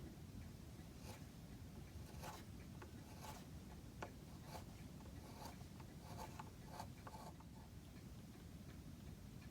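Faint light scraping and small taps of hand work on wooden chair parts, as the rosewood top rail is tried for fit, over a low room hum.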